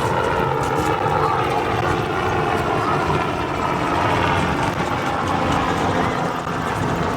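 Motorcycle engine running steadily while riding through city traffic, over a dense low rumble of road noise.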